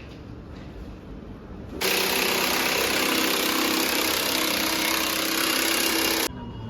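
A power tool runs in one continuous burst of about four and a half seconds, starting abruptly about two seconds in and cutting off suddenly.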